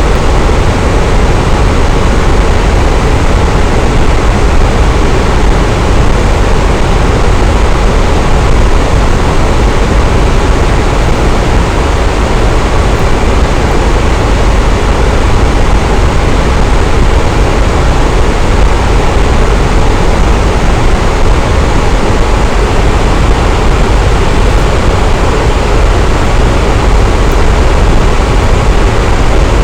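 Electric fan running steadily: an even, unbroken rush of air, heaviest in the low end.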